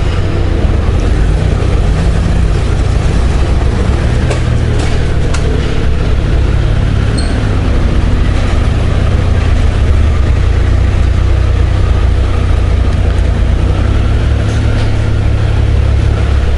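2018 Honda Gold Wing's flat-six engine running at low speed, a steady low rumble with a few faint clicks over it.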